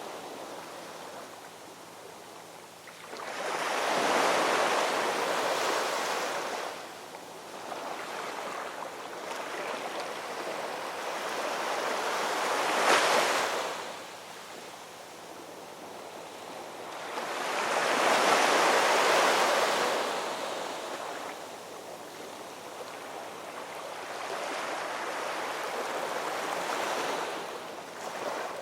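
Ocean surf: waves breaking and washing up the shore in slow swells every several seconds, about four in all, one with a sharp crash near the middle.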